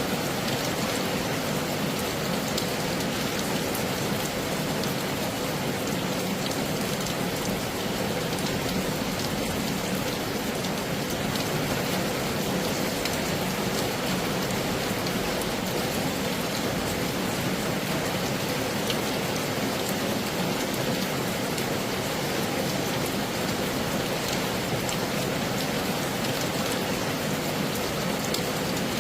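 Heavy rain falling steadily: a dense, even hiss with scattered sharper drop impacts.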